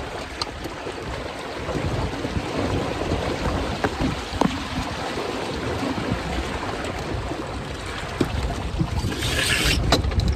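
Water rushing and splashing along the hulls of a Hobie Cat Getaway catamaran under sail, with wind buffeting the microphone as a low rumble. A short, louder hiss comes near the end.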